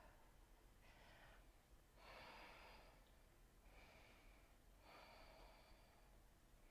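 Near silence with about four faint breaths of a person holding a yoga balance pose, picked up close by a body-worn microphone.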